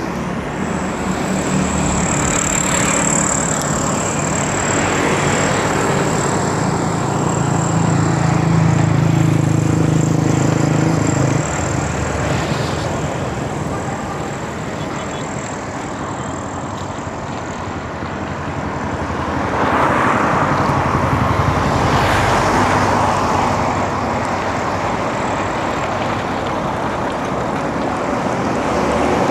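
Road traffic around a moving bicycle: motor vehicles' engines and tyres passing close by. A heavy engine hum runs through the first part, and another vehicle passes about two-thirds of the way in. A thin, steady high whine sits over it for most of the time.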